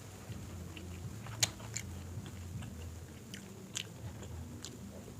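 Close-up biting and chewing of crispy fried chicken, with a few sharp crunches about a second and a half in and again near four seconds, over a faint steady low hum.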